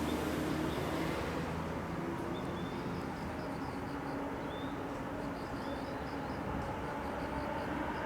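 Steady low drone of a distant jet aircraft, its high hiss dying away over the first second or so. A few faint short chirps sound over it.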